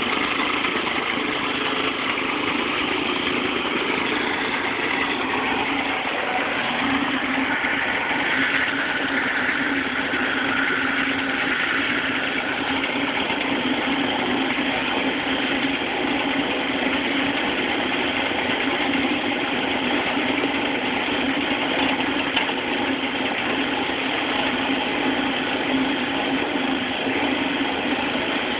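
Rack-and-pinion log splitter running, a steady, unbroken mechanical hum from its drive.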